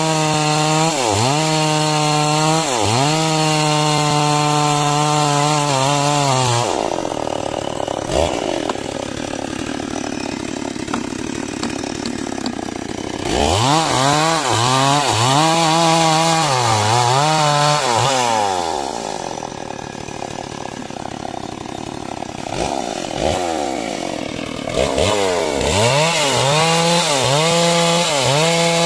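Two-stroke chainsaw ripping a log lengthwise into beams. Its engine pitch repeatedly dips under the load of the cut and picks up again, in three spells with quieter, rougher-running stretches between them.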